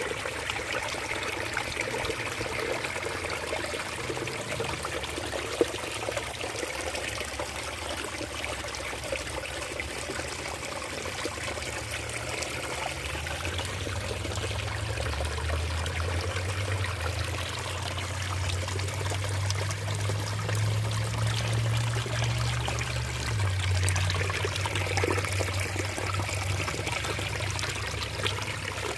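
Small rain-fed waterfall splashing and trickling steadily into a stream. A low rumble grows in from about halfway through.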